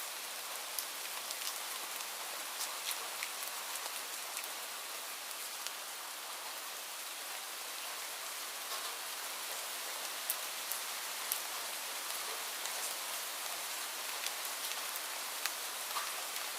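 Steady rain, a dense even hiss with many separate drops pattering sharply on a surface close by.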